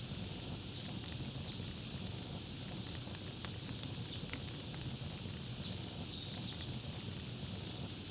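Campfire crackling steadily over a low rumble of burning wood, with scattered sharp pops, three of them louder than the rest near the middle.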